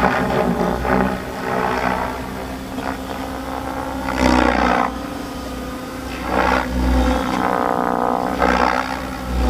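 Large 750-size electric RC helicopter in flight, its main rotor blades and motor running with a steady hum that swells and eases every second or two as the blades load up during manoeuvres.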